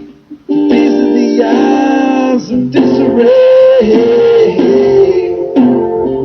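Live acoustic music: a plucked string instrument strummed in sustained chords. It starts after a brief drop-out about half a second in.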